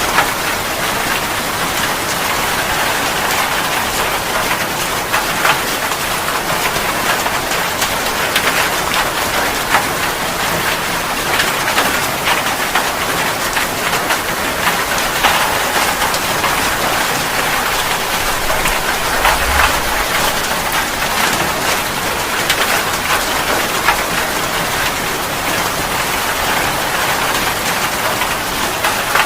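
Steady rain falling, with individual drops striking a surface close by as many sharp ticks over a continuous hiss.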